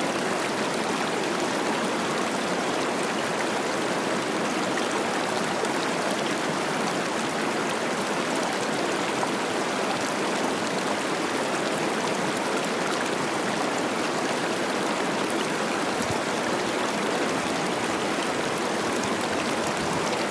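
Cache la Poudre River running high with spring snowmelt: a steady, babbling rush of water.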